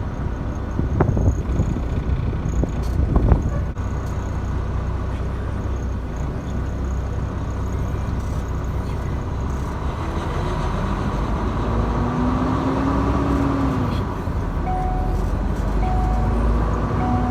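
Semi truck heard from inside the cab while under way: steady low engine and road rumble, with a couple of heavy thumps in the first few seconds. From about ten seconds in, the engine note climbs, dips and climbs again as the truck pulls away.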